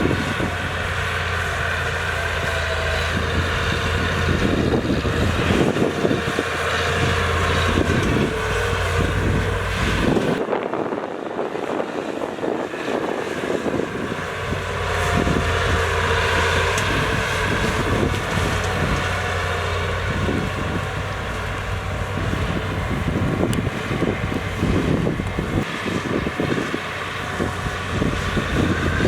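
Heavy diesel earthmoving machinery running steadily. About ten seconds in, the deep low hum drops away abruptly and the sound changes before it builds back.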